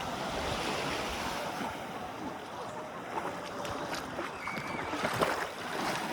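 Sea water washing at the shore, with wind on the microphone and a sharp knock or splash about five seconds in.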